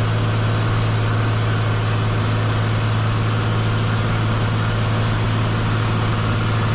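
Steady drone of a Cessna 182 Skylane's piston engine and propeller in flight, heard from inside the cabin, with a strong low hum that holds one pitch throughout.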